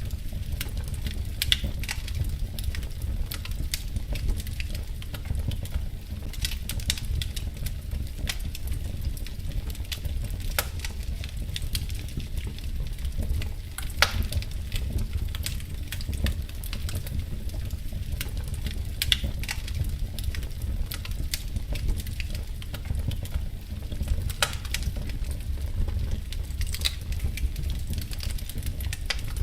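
Wood fire crackling: irregular small snaps and a few sharper pops over a steady low rumble.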